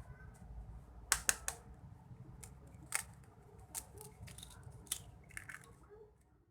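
Sharp, irregular clicks and snips of kitchen handling, with a quick run of three about a second in and single ones every second or so after.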